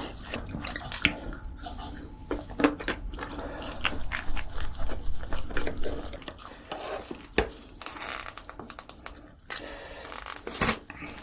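Close-miked eating: wet chewing and smacking with crunchy bites, as short irregular clicks.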